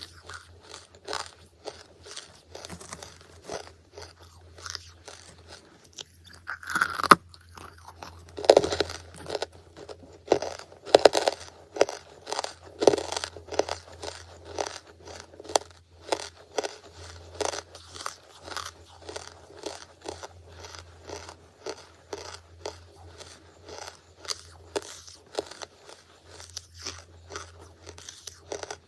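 A person biting and chewing charcoal, a run of crisp crunches with several louder bites about a quarter to halfway in.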